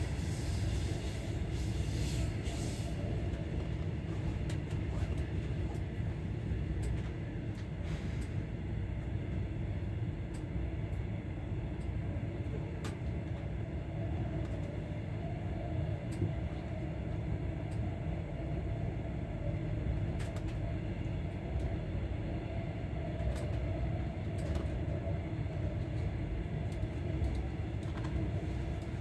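Passenger train running, heard from inside the carriage: a steady low rumble with scattered faint clicks and knocks.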